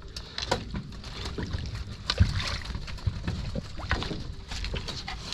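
Water splashing and knocking around a small rowboat as it is worked on the water: a steady low rumble with irregular splashes and knocks, the loudest about two seconds in.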